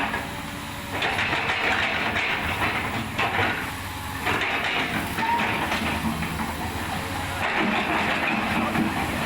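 A steady low machine hum with three loud bursts of hissing, each lasting one to two seconds.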